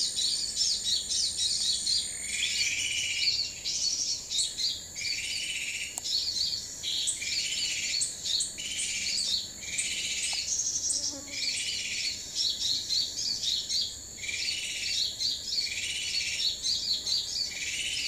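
Small forest birds chirping and twittering rapidly, with one lower call repeated about every second or so.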